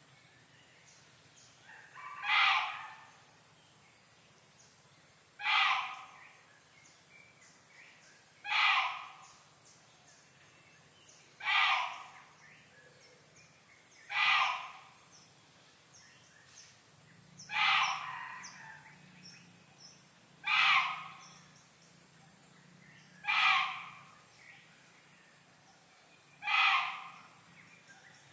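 A bird calling the same short call over and over at a steady pace, about once every three seconds.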